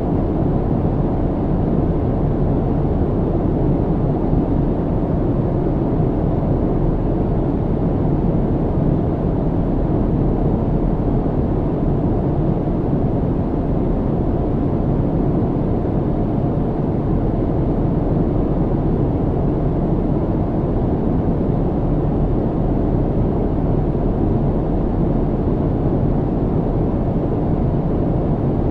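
Steady low airliner cabin rumble: the even, unchanging roar of engines and airflow as heard inside the cabin in flight, deep and muffled with little high hiss.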